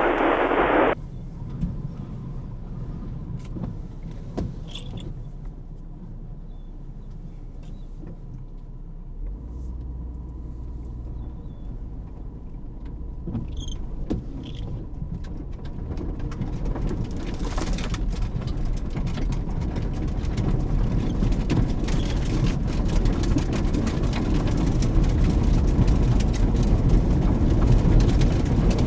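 Low rumble of a car heard from inside the cabin, with a short burst of two-way radio static at the start. Rain begins striking the vehicle about halfway through, the sharp ticks of drops growing heavier and louder toward the end.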